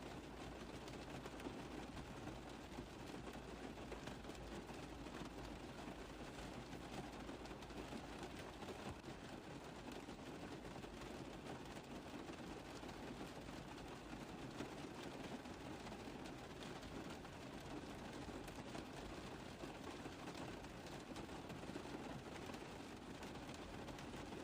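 Steady rain falling on a car roof, a dense, even patter of drops with no breaks.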